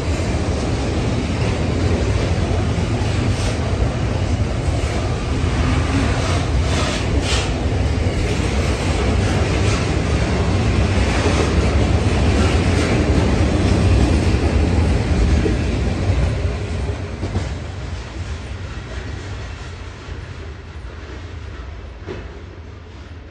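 Freight train of container flat wagons rolling past, wheels clattering over the rail joints. The noise fades from about 16 seconds in as the last wagon moves away.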